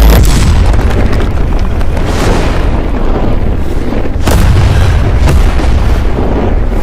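Loud anime explosion or blast sound effect: a continuous low rumble of noise with sharp cracks about two, four and five seconds in.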